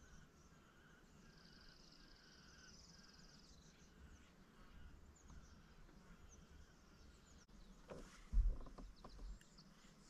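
Faint bird calls, including a short trill early on, over quiet outdoor ambience. A little past eight seconds in there is a low thump with a few knocks, the loudest thing heard.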